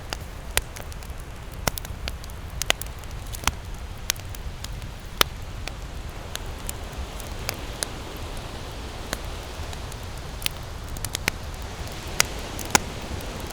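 Wood campfire crackling, with irregular sharp pops about a second apart over a steady low rush.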